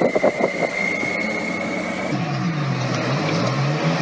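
A steady high whine with a few short knocks, then, about two seconds in, a vehicle engine running with its pitch rising and falling as the revs change.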